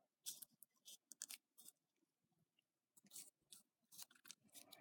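Near silence with a few faint clicks and rustles of small paper craft pieces being handled, quiet in the middle.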